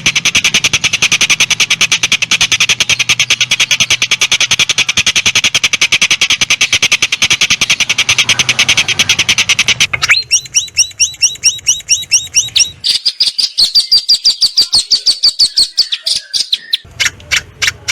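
Songbird calls in loud, fast-repeating runs of high notes. About ten seconds in the song changes abruptly to a string of sweeping whistled notes, then to steadier high notes, with a rapid clicking rattle near the end.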